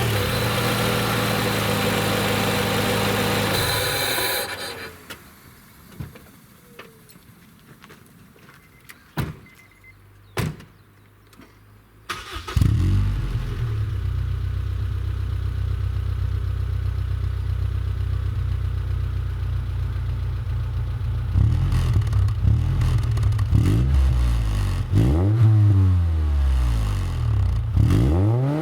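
Honda Accord CL3 engine fitted with a TOP FUEL ZERO-1000 intake and Mugen sports exhaust: running, then shut off about four seconds in, with a few clicks in the quiet that follows. It starts again about twelve seconds in, idles steadily, and near the end is blipped in several quick revs that rise and fall.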